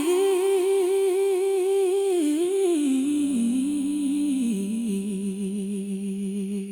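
A woman's voice humming a wordless closing phrase with vibrato, over soft backing. About three seconds in it steps down to a lower held note, and the song fades out on it.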